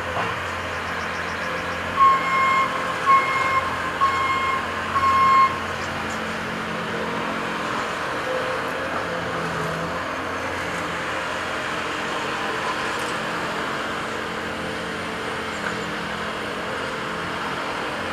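Diesel construction machinery running steadily, with a reversing alarm beeping four times about a second apart a couple of seconds in.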